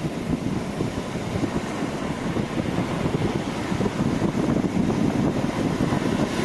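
Wind buffeting the microphone at the seashore, over the wash of sea waves: a steady rough rumble with no distinct events.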